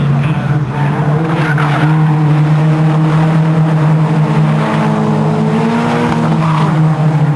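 Racing car engine running hard at steady high revs, its pitch stepping briefly about four and a half and seven seconds in.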